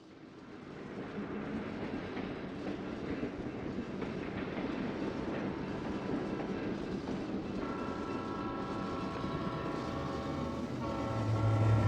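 EMD SD7 diesel locomotive approaching with a passenger train, its engine and wheels on the rails growing louder. Its air horn sounds about eight seconds in, breaks off briefly, then sounds again near the end.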